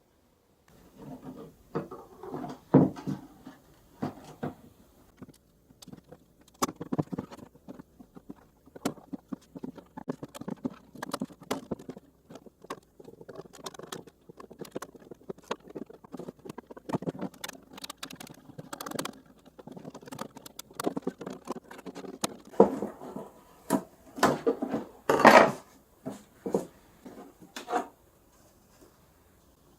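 Irregular taps, knocks and scrapes of objects being handled at close range, with a cluster of louder knocks about 25 seconds in; the sounds stop shortly before the end.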